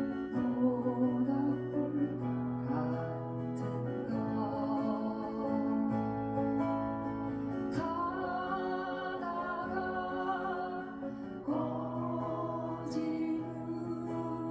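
Acoustic guitar accompanying a slow folk song, with a wavering melody line over it that enters about eight seconds in and again near the end.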